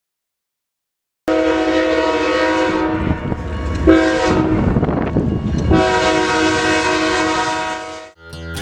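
Train horn sounding after about a second of silence: a long blast, a short blast, then another long blast, with the rumble of the passing train between them.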